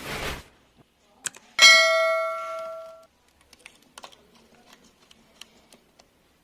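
A metal piece struck once and left ringing with a bright, bell-like tone that dies away over about a second and a half. A short rush of noise fades out just before, and light clicks and taps follow.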